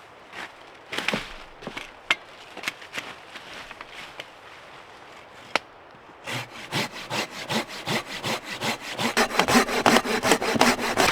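Hand saw cutting into a solid fallen log: a few scattered strokes at first, then from about six seconds in a quick, even run of back-and-forth strokes that grows louder.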